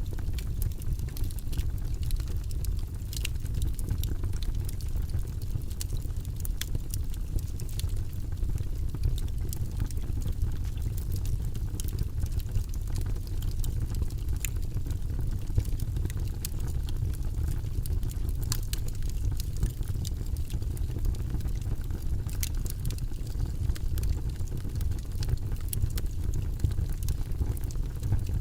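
Logs burning in a fireplace: a steady low rumble of flames with frequent, irregular sharp crackles and pops.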